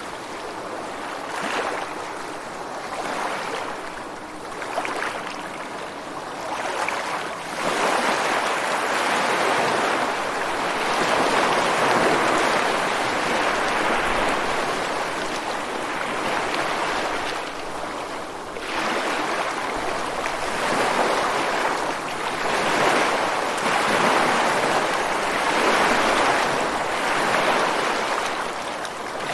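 Ocean surf breaking and washing on a beach and rocks, a continuous rushing that swells and eases with each wave, growing louder about a third of the way in.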